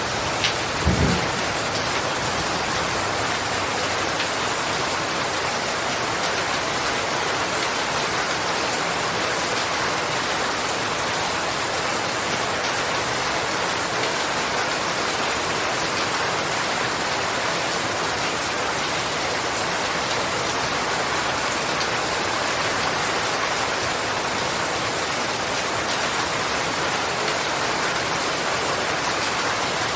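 Steady rain falling, an even hiss. A short low rumble of thunder comes about a second in.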